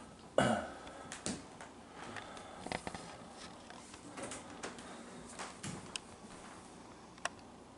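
Scattered light knocks and clicks in a small room, the loudest about half a second in, with no steady motor hum.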